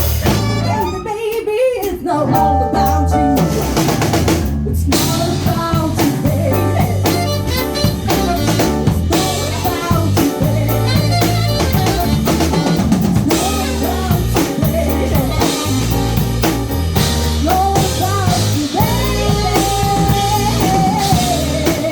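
Live jazz-funk band playing: a drum kit groove with rimshots and bass drum under a bass line and a melody line, with a brief break in the beat a second or so in.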